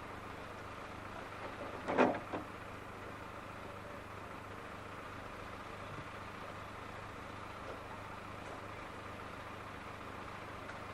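Steady running hum of a narrow-gauge electric tram heard from the cab, with one sharp knock about two seconds in.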